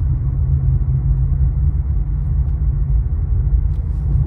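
Infiniti Q50 3.0t being driven at a steady pace: a steady low rumble of engine and road noise, with no revving.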